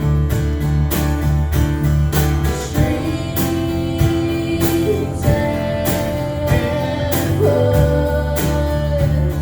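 Acoustic band playing an instrumental passage: strummed guitar in a steady rhythm over a sustained bass line, with held melody notes on top.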